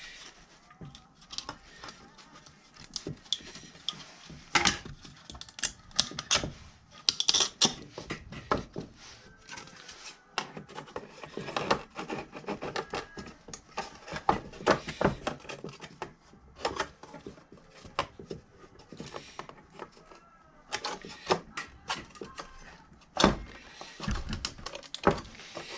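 Irregular clicks, taps and knocks of hard parts being handled and fitted back together by hand, with a few louder knocks.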